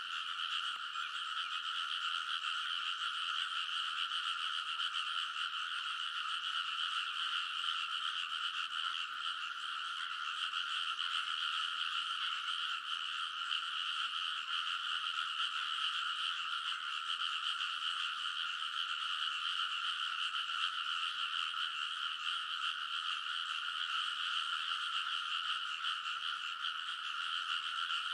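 A massed chorus of many frogs calling in a rice paddy at night, their croaks blending into one steady, unbroken din.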